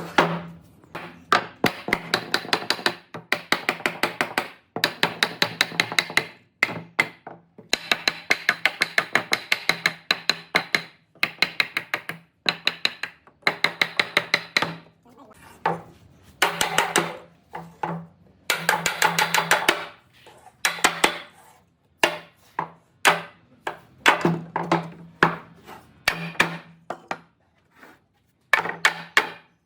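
Rapid bursts of sharp knocks, roughly eight a second, each burst lasting one to three seconds with short pauses between, and a steady hum that sounds only while the knocking runs: a tool striking repeatedly in woodworking.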